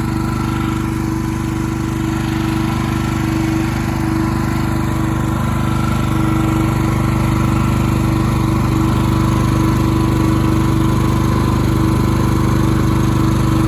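Champion 4250-watt inverter generator running steadily in eco mode, with a steady engine hum that gets a little louder about six seconds in.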